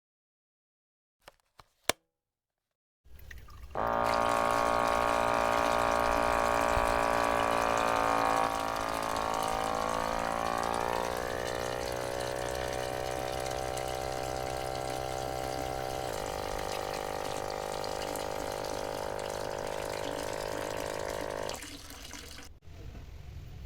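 Water running and splashing with the steady hum of a small electric motor, likely a mini water pump. It starts a few seconds in, the hum shifts down in pitch and steps again partway through, and the sound cuts off suddenly near the end.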